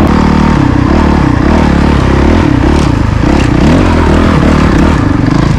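Honda CRF450RL's single-cylinder four-stroke engine running under way, its pitch rising and falling again and again as the throttle is opened and closed.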